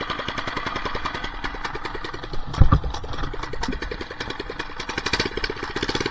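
Small single-cylinder four-stroke minibike engine running just after a first-pull start, a rapid, even chain of exhaust pops that picks up slightly near the end, with one heavier thump about two and a half seconds in. It runs rough and won't hold an idle without throttle, which the owner puts down to running without a muffler.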